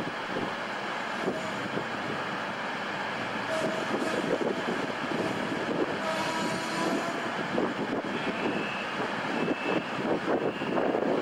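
A passenger train running in toward the platform: a steady rumble of the train with its wheels knocking over the rails and pointwork, louder near the end. A few faint, brief squealing tones come and go.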